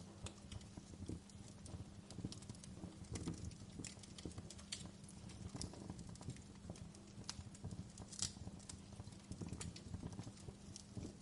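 Wood fire crackling in a fireplace: irregular small snaps and pops over a low hiss, with one sharper pop about eight seconds in.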